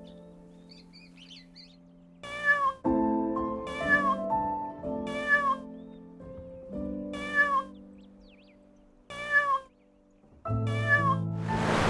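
An animal calling six times with short, meow-like cries about one to two seconds apart, over soft piano music.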